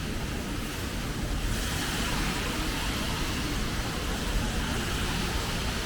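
Street traffic on wet pavement: a steady hiss of tyres on the rain-soaked road over a low rumble, the hiss swelling about one and a half seconds in.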